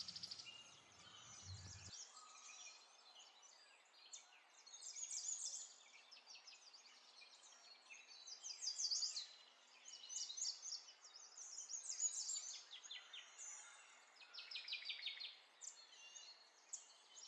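Faint birdsong: small birds chirping in quick repeated trills, coming in short bursts with pauses between.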